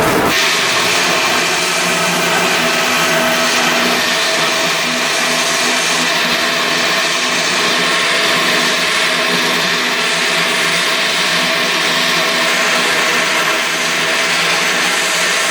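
A power tool running steadily at constant speed: an even hum with a wide hiss over it, never changing in pitch.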